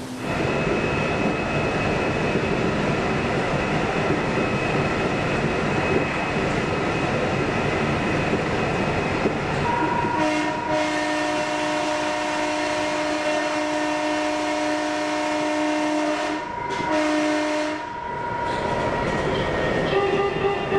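A train running past with steady noise from the wheels and track. About ten seconds in, its horn sounds a chord of several notes in a long blast, then a short one.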